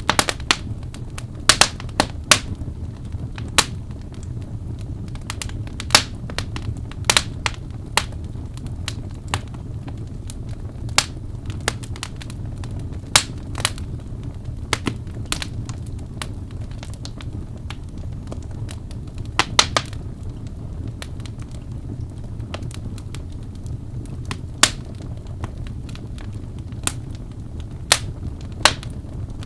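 Crackling fire: irregular sharp pops and snaps, sometimes in quick clusters, over a steady low rumble.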